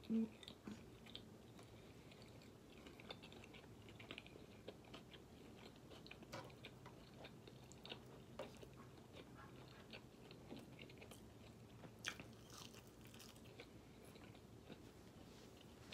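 Faint close-up chewing of food with the mouth closed: soft, scattered wet clicks and smacks, one a little sharper about three-quarters of the way through.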